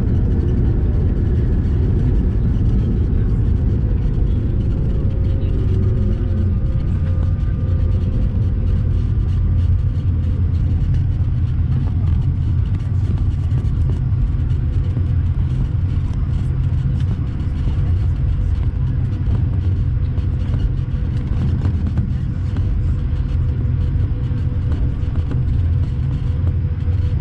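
Steady low rumble of airflow and engines inside the cabin of an Airbus A220-300, with faint whining tones from its Pratt & Whitney geared turbofans that drift slightly lower in pitch.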